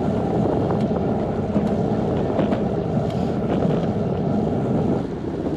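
Wind buffeting the microphone of a moving cyclist: a steady low rushing noise.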